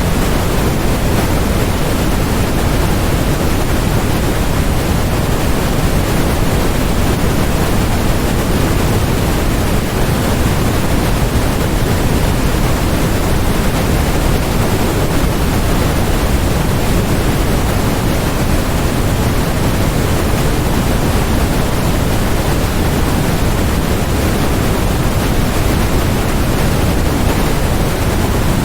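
Steady, unchanging generated noise, sold as white noise, that is fuller in the lows and softer toward the highs, closer to pink noise.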